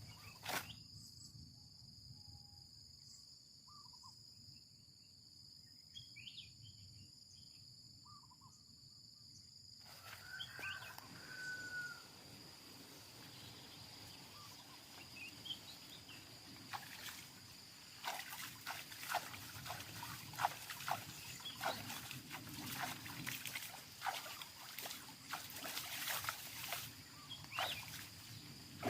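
Quiet outdoor natural ambience with a steady high-pitched drone and a few faint chirps. In the second half comes a run of sharp clicks and knocks.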